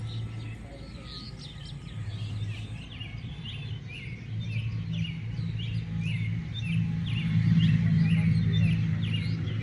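Many small birds chirping in quick, overlapping short calls. Beneath them runs a low hum that comes and goes and swells to its loudest about three-quarters of the way through.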